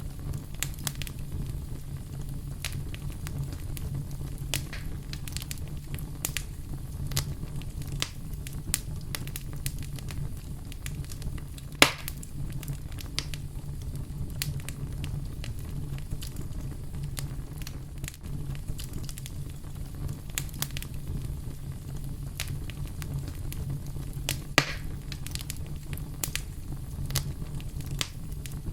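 Campfire crackling: scattered small pops and snaps over a steady low rumble of burning, with two louder snaps, one about halfway through and one near the end.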